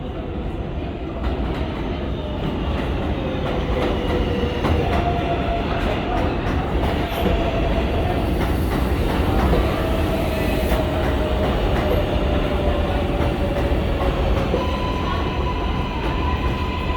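R188 subway train in motion on elevated track: a rumble with scattered clicks of the wheels over rail joints, and motor whines that shift in pitch, settling into a steady higher whine near the end.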